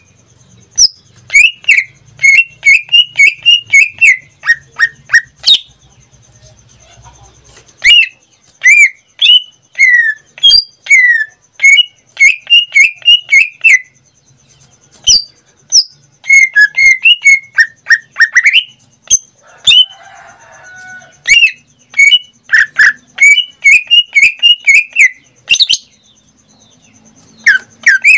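Caged green leafbird (cucak ijo) in full song: loud phrases of rapid, sharp whistled and chirped notes, broken by short pauses of a second or two.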